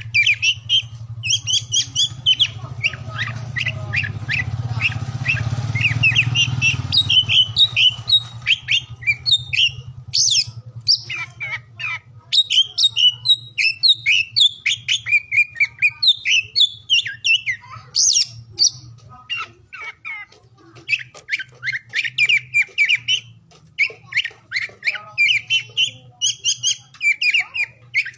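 Oriental magpie-robin (kacer) singing: a long, rapid run of varied whistles, chirps and harsh notes with brief pauses. A steady low hum lies underneath, louder with a rushing haze for the first seven seconds or so.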